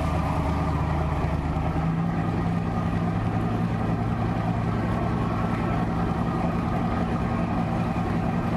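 A steady low drone with a few held low tones that shift to a slightly different pitch about two seconds in.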